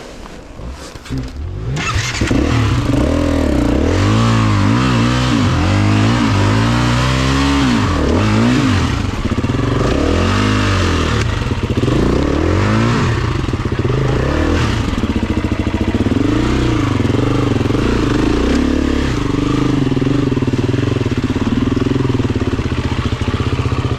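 Dirt bike engine, likely a Honda CRF250F, riding a trail: the engine gets loud about two seconds in and its pitch rises and falls again and again as the throttle is opened and closed.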